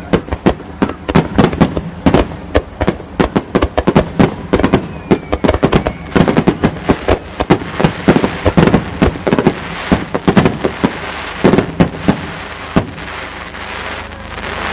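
Fireworks display: aerial shells bursting in a rapid barrage, several sharp bangs a second with echoing booms, thinning out and stopping about thirteen seconds in.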